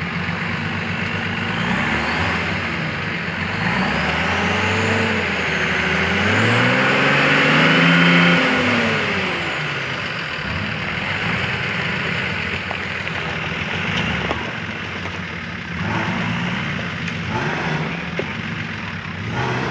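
A four-wheel drive's engine revving up and down as it crawls up a deep, muddy rutted track, its pitch rising and falling several times and loudest about eight seconds in, then settling lower.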